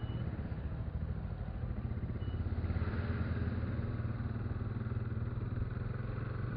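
Motorcycle engine idling steadily with a fast even pulse, a little louder about three seconds in. Two short faint high beeps sound, one at the start and one about two seconds later.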